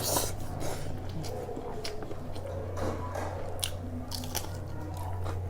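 Close-miked eating: irregular crisp crunching bites and chewing of food, over a steady low electrical hum.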